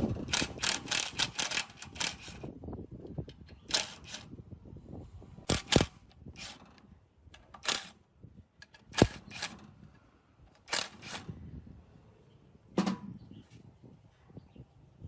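A quick run of sharp taps for about two seconds, then single knocks and clicks every second or two, some in close pairs.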